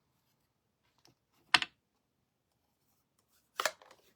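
A few sharp knocks of a clear stamp block being pressed onto the ink pad and paper on the craft table: a faint tick about a second in, one loud knock about a second and a half in, and a double knock near the end.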